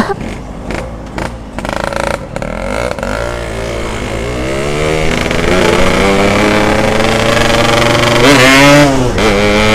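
Yamaha RX-King's two-stroke single running through an aftermarket 'setengah dewa' exhaust: a few soft pops at first, then the engine note climbs steadily as it accelerates and holds high, with a brief rev rising and dropping near the end.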